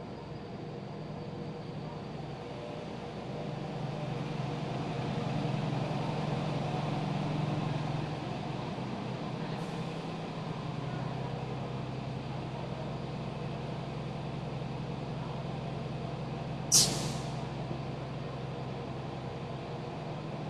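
High-speed train running, heard from inside the carriage: a steady rumble and hum that swells for a few seconds early in the stretch and then settles. About three-quarters of the way through, a short, sharp hiss of air cuts in and dies away quickly.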